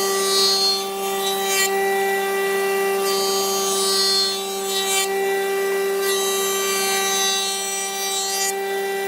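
A power tool running at a steady pitch on wood, with three long stretches of rasping as it is worked along the wood.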